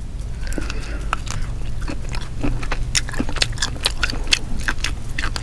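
Close-miked chewing of grilled squid: a quick run of wet mouth clicks and smacks, over a steady low hum.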